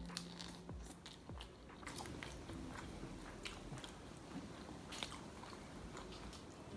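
Faint eating sounds: a person biting and chewing chicken, tearing meat off a drumstick bone, with scattered small clicks from the mouth.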